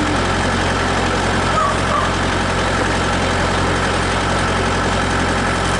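Tractor engine running steadily at an even pitch and level, driving a PTO-powered screw log splitter.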